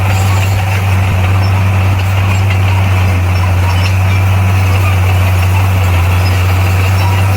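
Bulldozer's diesel engine running with a deep, steady drone that holds even throughout.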